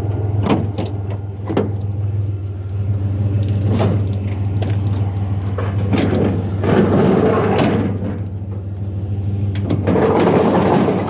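A pickup truck's engine runs steadily in the background. Over it come several sharp knocks and bangs in the first few seconds, then two longer stretches of scraping and rustling about six and ten seconds in.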